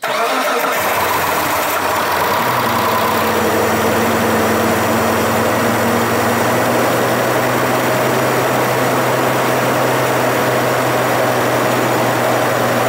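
2001 Mitsubishi Montero's 3.5-litre 6G74 SOHC V6 firing up on its first start after a head gasket rebuild. It catches suddenly and settles within a second or two into a steady idle.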